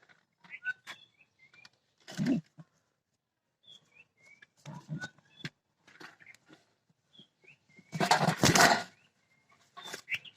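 A parrot giving short chirping calls, with scattered clicks and rustling; a louder burst of rustling noise comes about two seconds in and the loudest one about eight seconds in.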